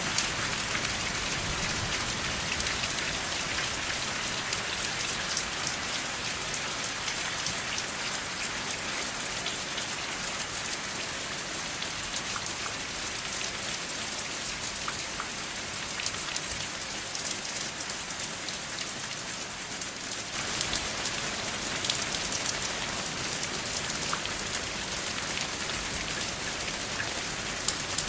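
Steady rain falling, a dense hiss of countless drops with fine individual drop ticks; the texture shifts slightly about twenty seconds in.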